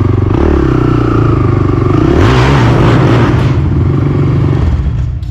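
ATV engine running under throttle while riding, its pitch rising and falling with the throttle, with a noisy rush for about a second and a half near the middle.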